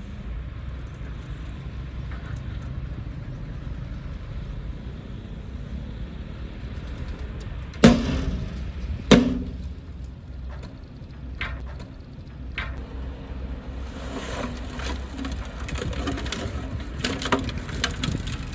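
Diesel earthmoving machinery running with a steady low rumble. Two loud bangs come about halfway through, a couple of lighter knocks follow, and rattling and clattering build near the end.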